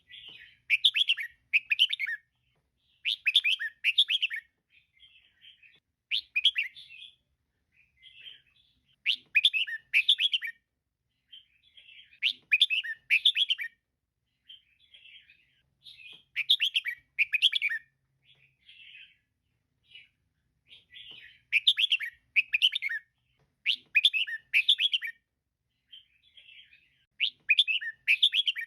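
Female red-whiskered bulbul calling: loud bursts of quick, chirpy notes every two to three seconds, with softer calls in between.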